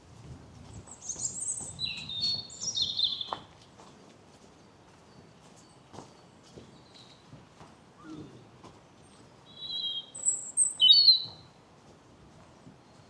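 A songbird singing two short, high, quick phrases about eight seconds apart; the first falls in pitch as it goes.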